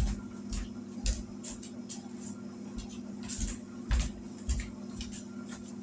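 A few light clicks and knocks of kitchenware being handled as a hot bowl is set down into a bowl cozy, over a steady low hum.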